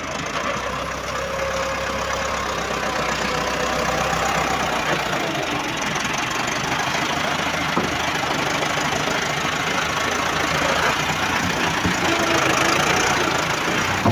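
Diesel tractor engine running steadily, growing slightly louder over the clip.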